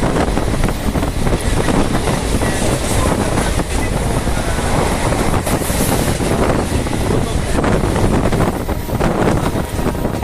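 Indian Railways passenger train running, its carriage noise loud and steady throughout.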